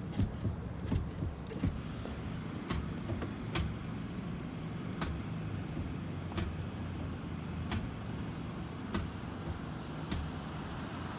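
Front brake of a 2009 Ford Fusion clicking each time the brake pedal is pressed and let off, a sharp click roughly every second and a bit over the engine's steady running. The clicking came on after a front wheel bearing replacement and goes with an ABS warning light that stays lit.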